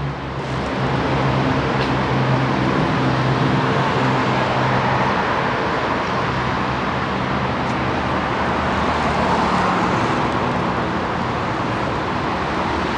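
Road traffic: a motor vehicle's engine running with a steady low hum over continuous traffic noise.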